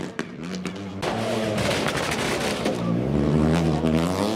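Rally car engine revving hard, its pitch rising and falling as it accelerates and lifts off on a gravel stage. The first second holds a few sharp exhaust pops, and the sound jumps abruptly to a louder, closer engine about a second in.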